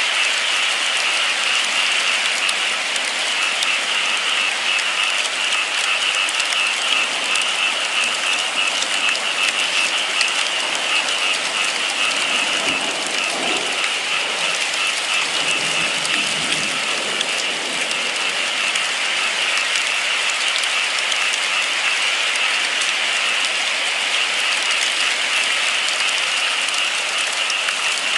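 Steady rain falling, a dense even hiss of many fine drops.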